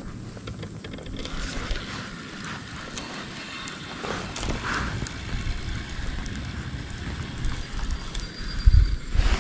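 Wind gusting on the microphone in a low, uneven rumble, with a fishing reel cranking a lure back in.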